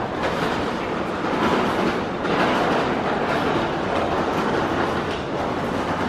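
Subway train running through an underground station: a loud, steady mass of rail noise with faint repeated clatter.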